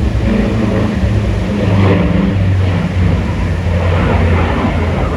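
An aircraft in flight, a loud steady drone with a low hum that wavers in pitch.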